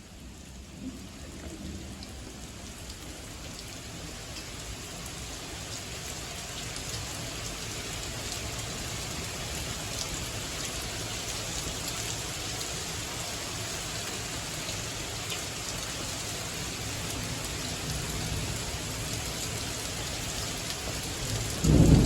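Small hail falling with rain: a steady hiss of precipitation with scattered sharp ticks of hailstones striking, growing louder over the first several seconds. Near the end a loud low rumble breaks in.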